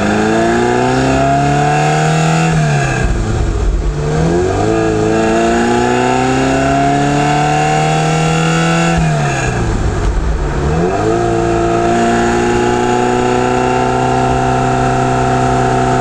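Ferrari 308 QV's flat-plane-crank V8 pulling through the gears: its pitch climbs, drops sharply at an upshift about four seconds in, climbs again, drops at a second upshift about ten seconds in, then holds steady at a cruise.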